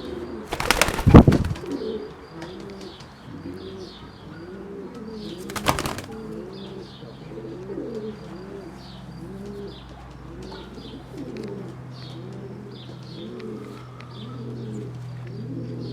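Racing pigeons cooing over and over, with two loud flurries of wing flapping, the first about a second in and the second around six seconds in, and faint high chirps.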